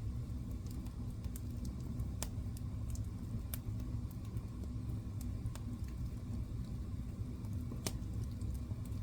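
Wood fire burning in a fireplace: a steady low rumble of the flames with scattered sharp crackles and pops, the loudest about two seconds in and near the end.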